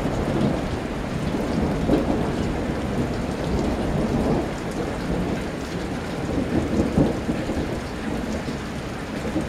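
Thunder rumbling and rolling, swelling a few times, over steady rain falling during a thunderstorm.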